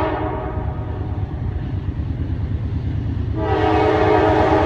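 Norfolk Southern diesel locomotive's air horn sounding a chord: one blast ends just as the sound begins, and a second, longer blast starts about three and a half seconds in. Under it runs the steady low rumble of the locomotive and the welded rail train rolling past.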